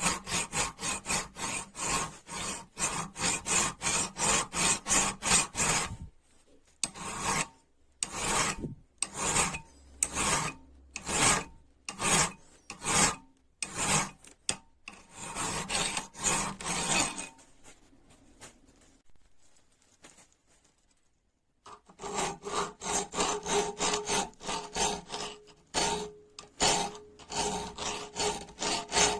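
Hand-worked abrasive strokes rubbing rust off a rusty wrench, back and forth at about four strokes a second. About six seconds in they slow to single strokes with gaps, then stop for a few seconds, and resume fast near the end.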